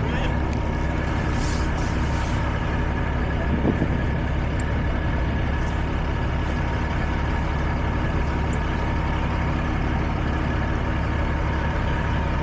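Heavy truck's diesel engine idling steadily, with one short knock a few seconds in.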